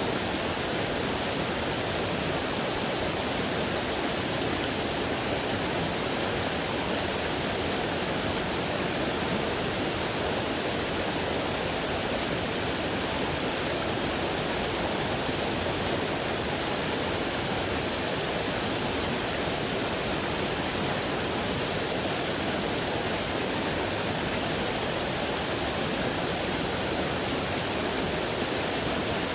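Steady rushing of a small mountain creek, the water running over rocks and into pools without a break.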